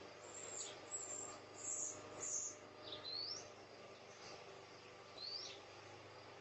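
Songbirds chirping faintly: a string of short, high chirps in the first couple of seconds, then two quick rising whistled notes, about three seconds in and about five seconds in.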